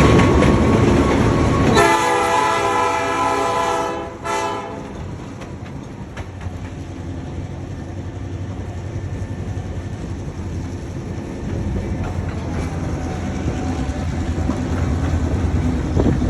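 Train horn sounding a chord for about two seconds, with a short second blast right after, over the noise of a moving passenger train. The train then rumbles steadily along the rails.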